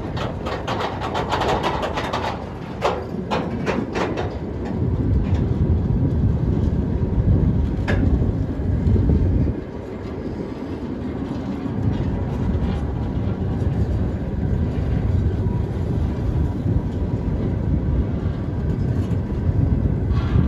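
Freight train of tank cars rolling past with a steady low rumble, the wheels clicking over rail joints, several quick clacks in the first few seconds and a single sharp one about eight seconds in.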